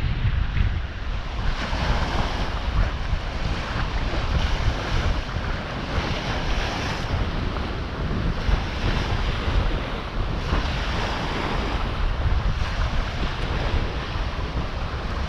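Strong wind buffeting the microphone in gusts, over sea waves washing onto the beach, the surf swelling and fading every few seconds.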